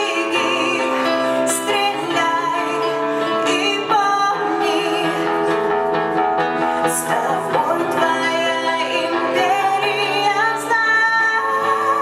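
Live band playing a song, with a singer holding wavering sung notes over sustained instrumental chords.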